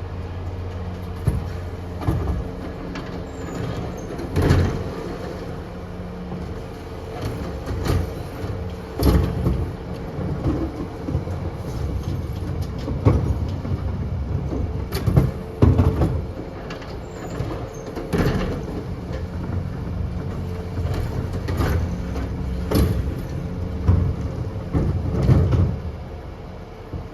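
Scania bin lorry's engine running steadily while bins are lifted and emptied, with a loud clank or bang every few seconds, about seven in all.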